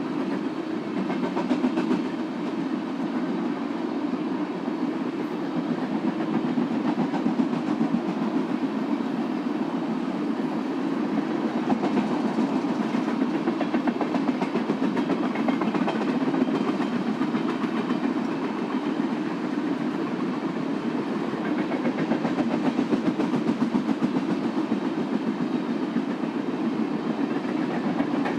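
Freight train cars rolling past on the rails: a steady rumble with continuous rapid wheel clatter over the track.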